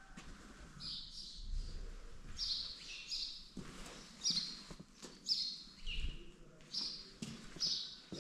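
Bird chirping repeatedly: short high calls, often two close together, about one a second.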